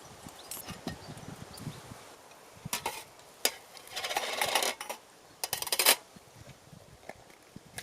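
Short bursts of handling noise, a few rustles and clinks a second or so apart, like utensils or picnic things being handled.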